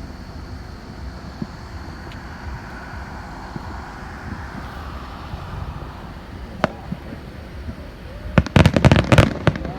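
Fireworks going off: one sharp crack, then near the end a rapid string of crackling reports lasting about a second.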